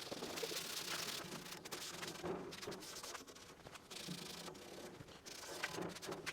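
Paintbrush rubbing rust encapsulator paint onto a sheet-metal car door: a steady, faint scratchy brushing with a few light knocks.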